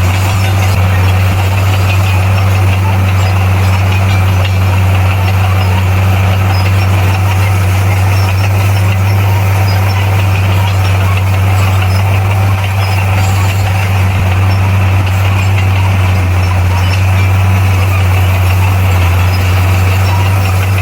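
Bulldozer's diesel engine running at a steady, unchanging speed, a loud constant low drone.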